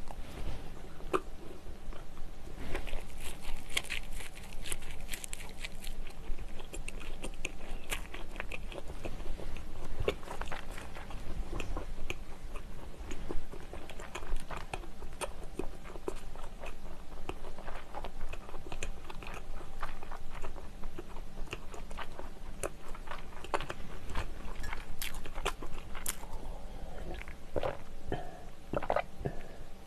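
Close-miked chewing of soft sausage-and-onion bread: many small wet clicks and squishes from the mouth. Near the end, gulps of milk being swallowed.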